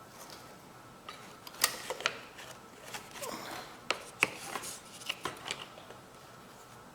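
Scattered small clicks and knocks, the loudest about a second and a half in and about four seconds in, as the air-cleaner backing plate and its breather hose are worked back into place on a Briggs & Stratton mower engine.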